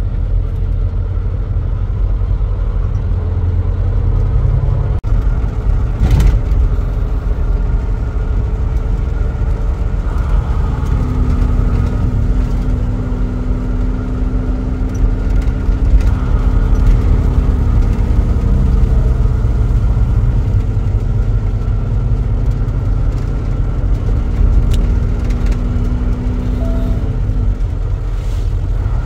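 Engine and road rumble inside a moving vehicle's cab. A steady engine hum rises out of it twice for several seconds, and there is a single knock about six seconds in.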